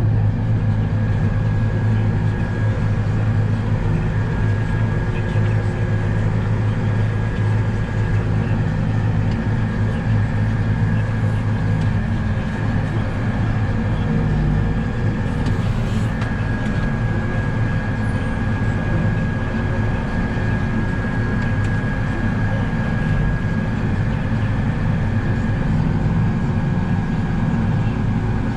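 Heavy harvest machinery running steadily, heard from inside the cab: a constant low engine drone with a thin, steady high whine over it that breaks briefly about halfway through and then resumes.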